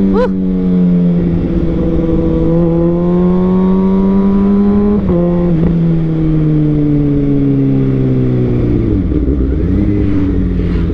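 Kawasaki ZX-6R's 636 cc inline-four running through an Austin Racing full-system aftermarket exhaust under way. The engine note climbs steadily through a gear, drops quickly at a shift about five seconds in, climbs again, then falls away near the end as the bike slows.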